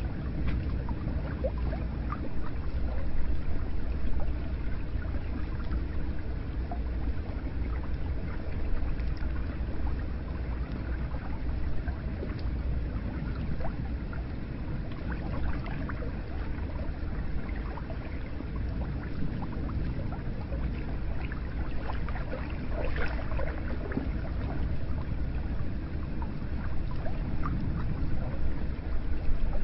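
Hot spring water running into an onsen bath: a steady, low rush of flowing water with scattered small splashes and drips, growing slightly louder near the end.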